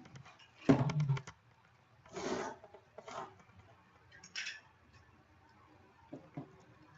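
A cardboard box being handled and opened: a knock about a second in, then three short scraping, tearing noises, as of tape being cut or pulled and cardboard flaps opened.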